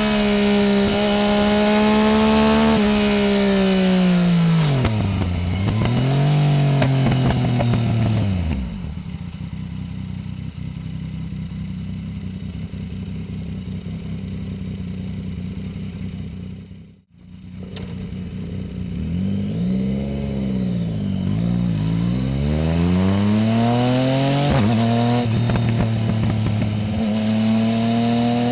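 Yamaha Tracer 900 GT's three-cylinder engine through a full Roads Italia exhaust with no dB killer, heard from under the seat. It runs at steady revs, then the revs drop through a few downshifts to a low, quieter steady run for several seconds. The sound cuts out briefly, then the engine pulls away again with rising revs through the gears.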